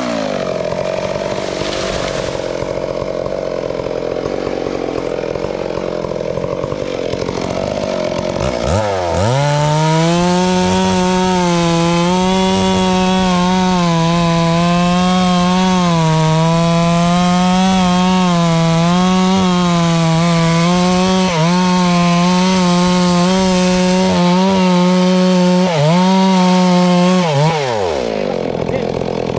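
Two-stroke chainsaw running. Its pitch drops right at the start, then it revs up sharply about nine seconds in and holds at high revs with a slightly wavering pitch while cutting wood. Near the end it drops off briefly and revs up again.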